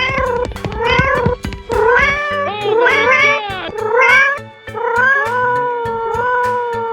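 A cat meowing over and over, several short rising-and-falling meows followed by one long drawn-out meow, over background music.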